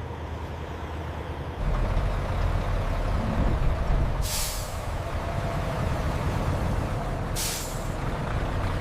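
Heavy truck engine rumbling, getting louder a second and a half in, with two short hisses of air brakes releasing air, about four and seven seconds in.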